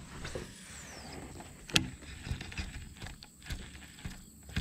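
Casting and handling of a fishing rod and reel from a kayak: a faint falling whine in the first second as line pays off the reel, a sharp click a little under two seconds in, soft ticks and knocks, and another click near the end.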